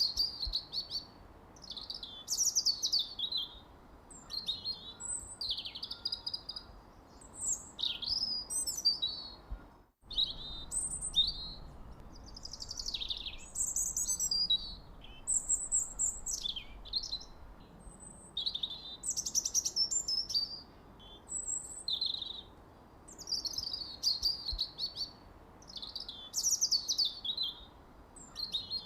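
Songbirds singing: a busy run of short, high chirps, whistled glides and trills, one phrase after another over a faint hiss. The sound drops out for a moment about ten seconds in, where two recordings are joined.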